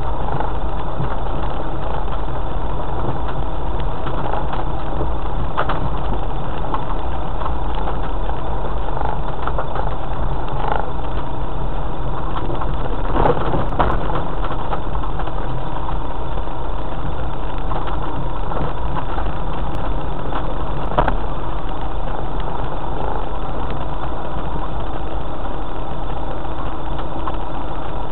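A 4x4's engine running steadily at low speed while driving a rough, stony track, with a few short knocks along the way.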